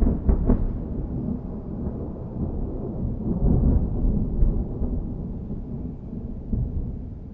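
Rolling thunder: a long low rumble that slowly fades, with a few sharp crackles near the start and a swell in the rumbling about halfway through.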